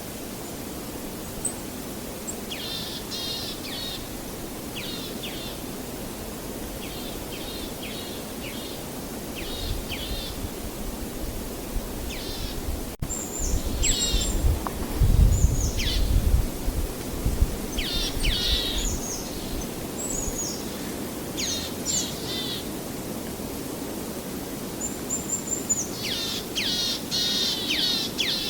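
Small birds singing, with many short chirps and quick downward-sweeping notes in repeated phrases, over a steady low rushing background. A louder low rumble swells about halfway through.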